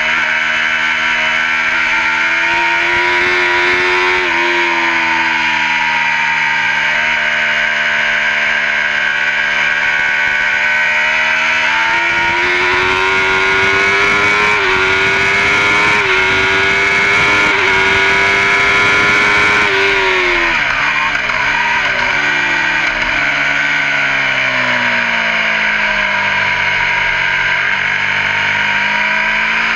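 Race superbike engine heard from the handlebars at high revs, with wind rush over it. The pitch climbs and steps with gear changes, then about two-thirds through falls away with short throttle blips as the bike slows for a corner. It rises again near the end.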